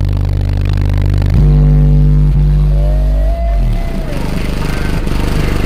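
Four B2 Audio 21-inch subwoofers in a truck playing bass-heavy music: deep, loud sustained bass notes that step to a new pitch every second or so. A short gliding synth line rises and falls about three seconds in.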